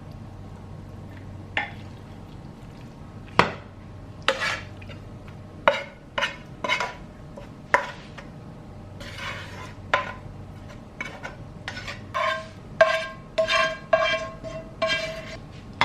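A metal utensil stirring and tossing food in a pan, clinking and scraping against the pan in a string of sharp, ringing clinks. The clinks are sparse at first and come thicker and faster in the second half.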